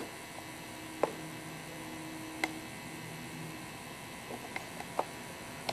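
Steady hiss and low hum with a few sharp clicks: one about a second in, one near the middle and one about five seconds in.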